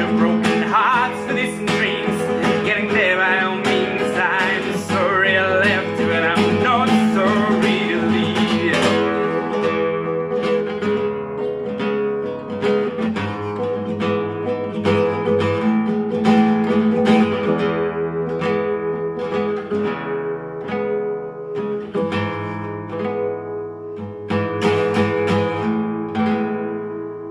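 Instrumental outro of a song on acoustic guitar: plucked and strummed chords that ring out, thinning to sparser, softer strikes and fading over the last few seconds.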